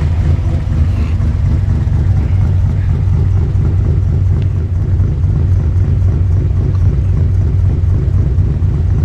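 Nissan Skyline C10 'Hakosuka' engine idling steadily with a low, lumpy rumble, breathing through Solex carburettors and exhausting through tubular headers into a dual Trust 50 mm muffler.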